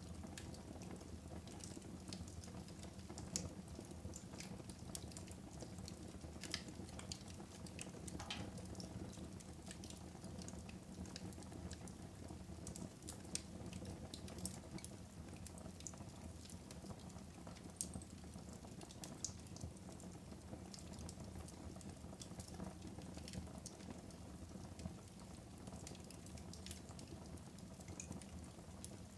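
Wood fire burning in a fireplace: a steady low rumble and hiss of the flames with frequent small crackles and occasional sharper pops.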